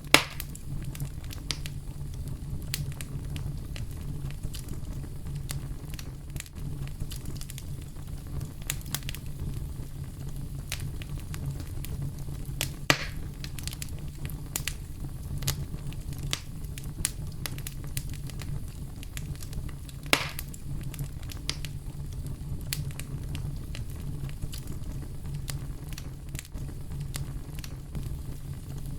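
Campfire crackling with frequent sharp pops, three of them louder: one right at the start, one about 13 seconds in and one about 20 seconds in. Under it runs a steady deep brown-noise rumble.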